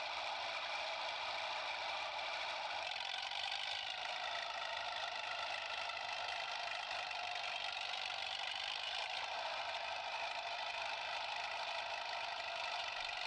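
Small electric motor and gears of a remote-control toy JCB excavator, whirring steadily with a high, whiny tone. The pitch shifts slightly about three seconds in.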